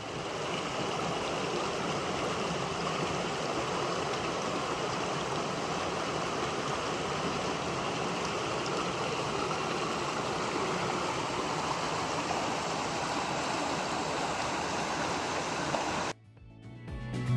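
Mountain stream flowing: a steady rush of running water that cuts off abruptly near the end.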